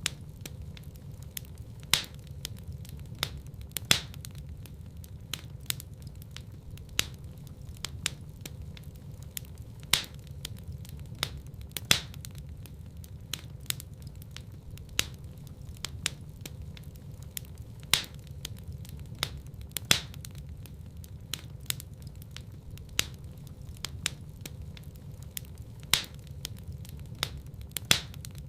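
Wood fire burning in a fireplace: a steady low rumble of flames with sharp crackles and pops, one every second or so and a louder pop every couple of seconds.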